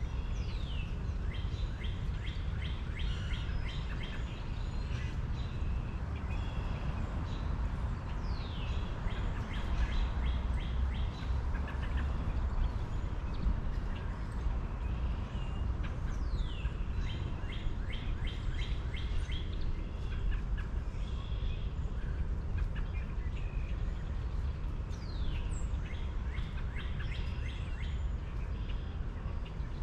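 Birds singing over a steady low rumble. Each song opens with a falling whistle and runs into a fast series of repeated notes, and it comes about four times.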